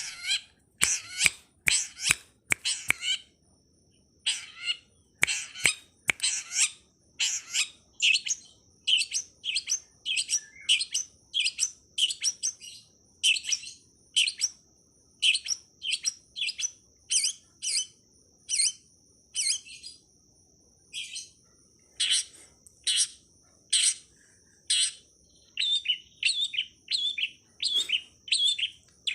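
Long-tailed shrike (pentet) calling in a rapid series of short, sharp chirps, about two a second. A steady high, thin tone runs underneath from about eight seconds in.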